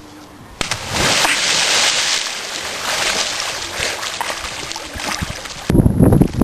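A person's body hitting river water in a sudden splash about half a second in, followed by several seconds of water sloshing and churning that slowly fades. Near the end a loud low rumble cuts in.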